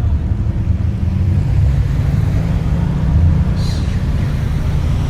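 A car engine idling close by, running steadily with a low, even note.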